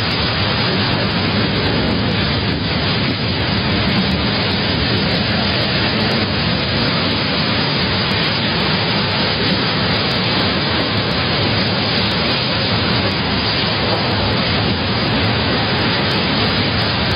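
Strong storm wind blasting the microphone: a loud, steady roaring hiss that does not let up.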